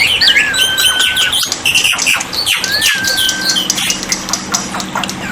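Black-winged mynas (jalak putih) calling: overlapping whistles, some held level and others quickly rising and falling, mixed with chirps.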